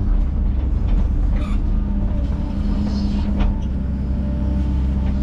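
Heavy earthmoving machine's diesel engine running steadily under load, with a few short metallic clanks from the machine working dirt.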